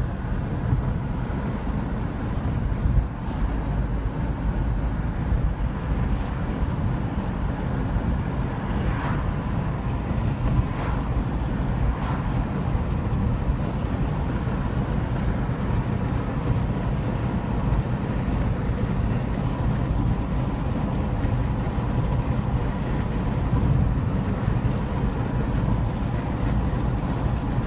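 Long Island Rail Road commuter train running through a tunnel, heard from inside the car: a steady low rumble of wheels on track.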